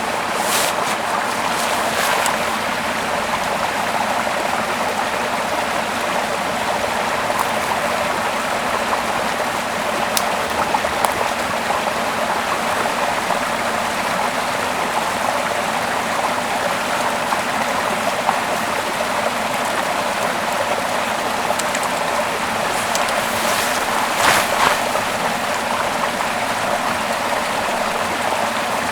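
Small river flowing over rocks, a steady rush of water, with a few brief sharp sounds on top, the loudest near the end.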